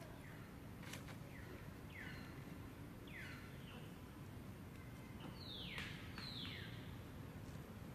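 A bird calling outdoors: a loose series of short calls, each falling in pitch, coming about once a second and loudest about six seconds in, over a steady low background hum.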